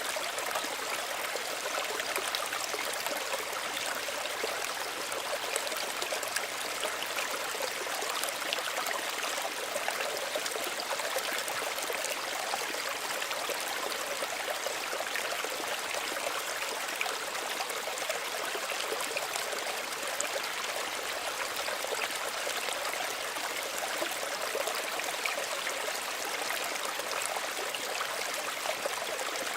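A small stream of running water, a steady trickling and babbling.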